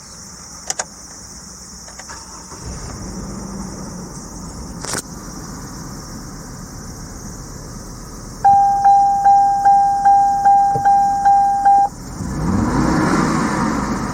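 A few clicks, then a dashboard warning chime beeping steadily about three times a second for several seconds. The chime stops as the starter cranks, and the Hummer H3's 3.7-litre inline-five catches and revs up briefly before settling toward idle near the end.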